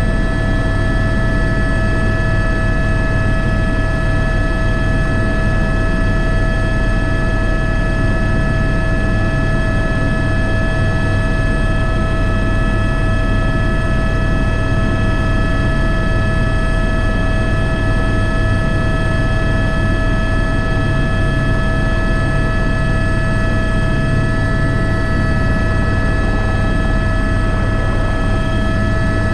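Airbus H125 (AS350 B3) turbine helicopter running steadily, heard from the cockpit: a low rotor drone under several steady high whines.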